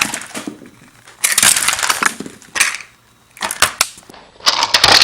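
Irregular crunching and rustling handling noises in two long stretches, with a few sharp clicks in between.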